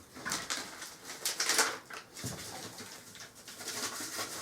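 Rustling and handling noises, a plastic packet of washing machine cleaner powder being shaken out, with a few light knocks.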